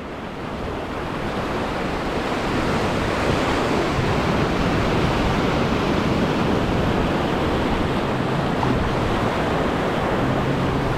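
Sea water washing and surging around a wader on a shallow reef, with wind on the microphone: a steady rush of noise that swells over the first couple of seconds and then holds.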